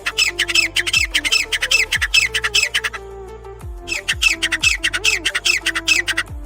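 Grey francolin (grey partridge, 'gora teetar') calling: a fast run of harsh, repeated notes in two bouts with a short break between them, over electronic background music with sliding bass drops.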